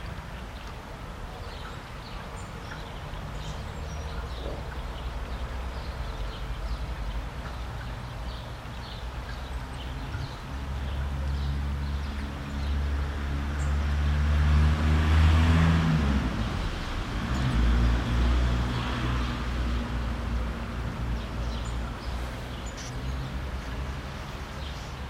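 Short high chirping calls of tits scattered throughout, over the low hum of a motor vehicle passing by, which grows to its loudest around the middle and fades toward the end.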